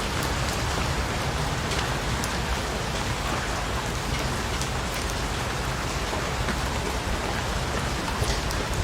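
Steady rain falling on a surface, with individual drops ticking now and then over the even hiss.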